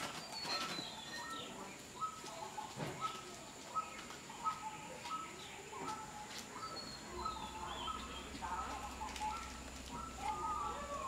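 Birds chirping: a short two-note call repeated steadily about every two-thirds of a second, with a thin falling whistle near the start and again about halfway through. Faint scattered rustles and clicks sit underneath.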